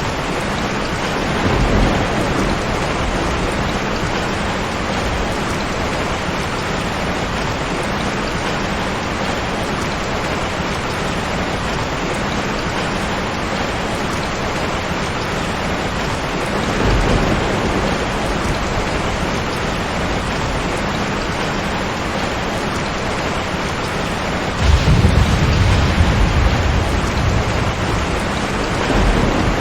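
Steady heavy rain, with low thunder rumbling a few times: briefly about two seconds in, again around seventeen seconds, and loudest for a couple of seconds near the end.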